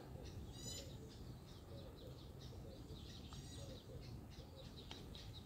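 Faint birds chirping, with a short high trill about half a second in and another after three seconds, and a couple of soft clicks.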